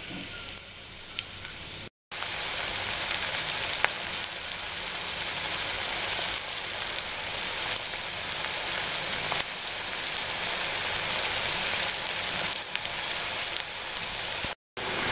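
Chopped onions and green chillies sizzling in hot ghee in a pan: a steady hiss with scattered crackles and pops. The sound cuts out briefly twice, about two seconds in and near the end.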